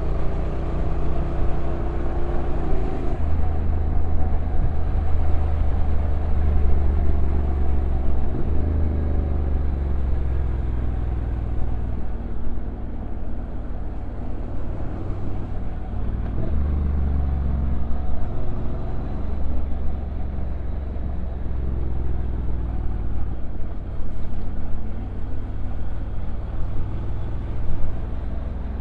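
Honda NC750X parallel-twin motorcycle engine running on a downhill ride, its note stepping abruptly in pitch a few times as the DCT gearbox shifts, over steady wind and road noise.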